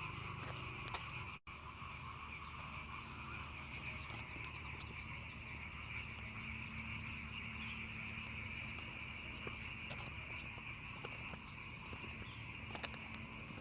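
Steady chorus of many frogs calling together, with a few faint bird chirps over it. The sound cuts out for an instant about a second and a half in.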